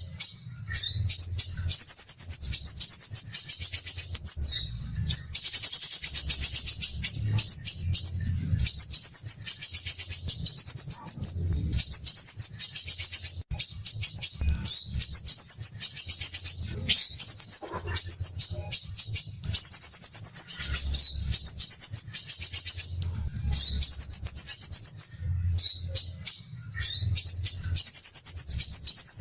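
Crimson sunbird singing: rapid, tightly packed high trills in phrases of a second or two, with brief pauses between them, repeated continuously.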